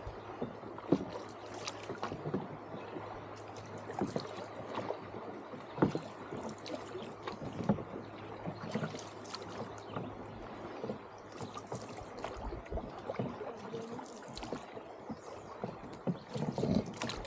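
Canoe being paddled: irregular splashes and small knocks from the paddles working the water, with no steady rhythm.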